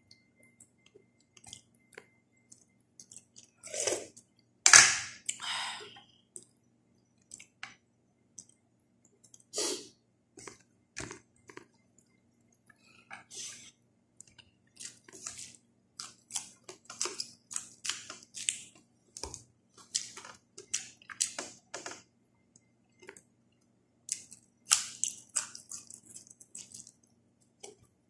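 A person chewing and eating by hand a meal of milkfish sinigang with rice and raw vegetables: a run of short, wet mouth sounds, sparse at first and coming thick and fast in the second half, with a louder burst about four to five seconds in.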